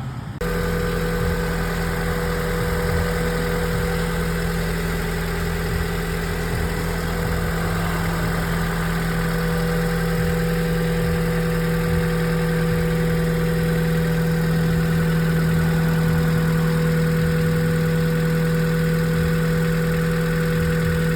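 An engine idling steadily at a constant, unchanging pitch, starting abruptly about half a second in.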